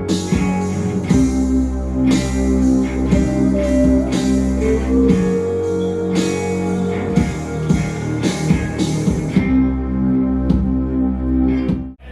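A band playing a slow acoustic doom-metal piece live, with plucked guitar over low held notes; the music cuts off suddenly near the end.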